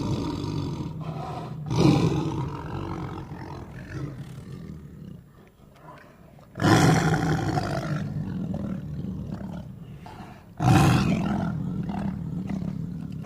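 Tiger roaring: three long roars, each starting suddenly and fading away over a few seconds, about two, seven and eleven seconds in.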